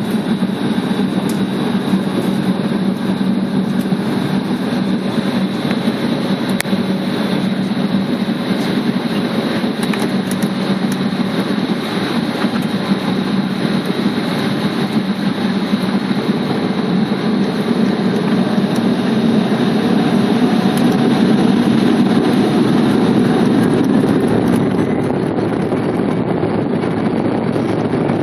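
Embraer 190 airliner's jet engines running with a steady drone and whine, growing somewhat louder about two-thirds of the way through.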